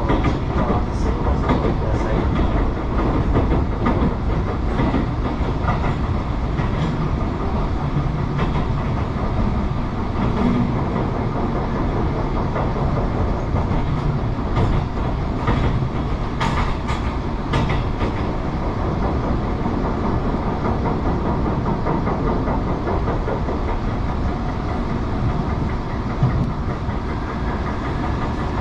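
Tobu Railway electric train running along the line, heard from inside the passenger car: a steady rumble of wheels on rail, with a short run of sharp clacks from rail joints about halfway through.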